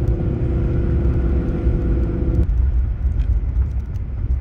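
A 4x4 truck driving, with a heavy low rumble from engine and road. A steady hum rides over it and stops abruptly a little over halfway through, while the rumble carries on.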